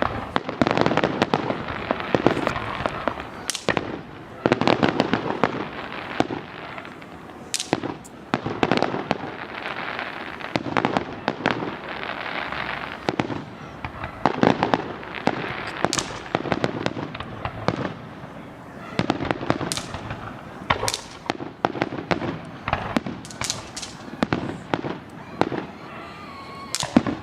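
Consumer fireworks going off one after another: many sharp bangs and pops in quick succession, with denser noisy stretches lasting a second or two between them.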